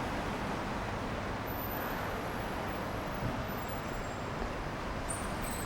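City street traffic: a steady wash of passing vehicles and tyres on wet road, with faint high-pitched whines in the background.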